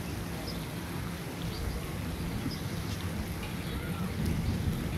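Steady outdoor noise of heavy monsoon rain with a deep rumble that grows louder near the end, and a few faint high chirps.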